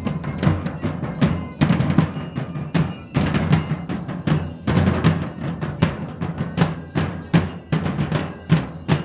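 A drum troupe playing a driving, steady rhythm on large drums, with several strikes a second and regular louder accents.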